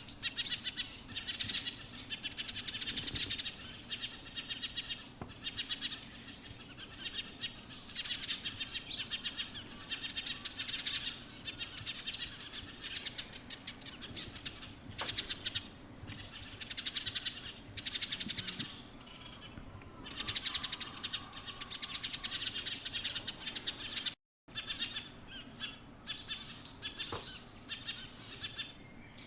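A small songbird singing over and over in twittering phrases a few seconds long, most ending in a sharp high note that drops in pitch. The sound cuts out for a moment about 24 seconds in.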